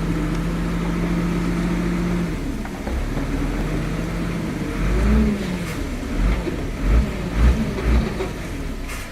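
Heavy vehicle engine running steadily, then revving up and down several times in the second half, with low thumps among the revs.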